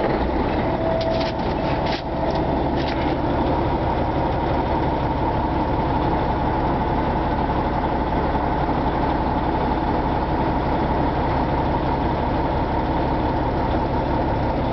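Caterpillar C15 diesel of a Peterbilt heavy-haul tractor idling steadily just after being started. A few clicks and a brief tone sound in the first few seconds.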